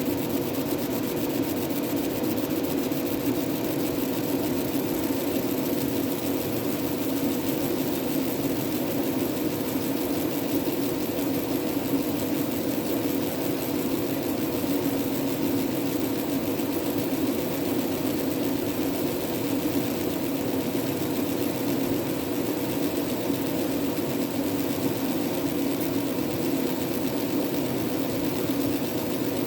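Fiber laser engraving machine running: a steady hum with faint steady tones over an even whir.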